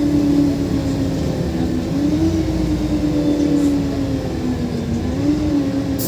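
LiAZ 5292.67 natural-gas city bus under way, its engine and drivetrain running with a steady hum. The pitch sags slowly and rises again twice, as the bus changes speed.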